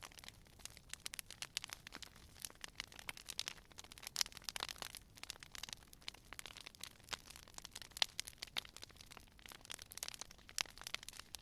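Campfire wood crackling: rapid, irregular snaps and pops over a soft hiss, with a few sharper pops about four and eight seconds in.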